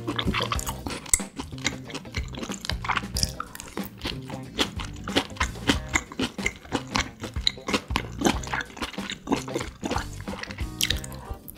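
Close-miked chewing of beef and bell pepper chop steak, with many quick, sharp mouth clicks, over background music.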